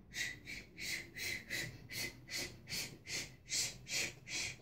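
Quick, rhythmic breathy puffs, about three a second, like a child panting or puffing into the microphone.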